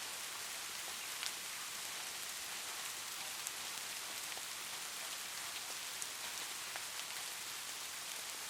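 Steady rain falling, an even hiss with scattered individual drops ticking, the sharpest about a second in.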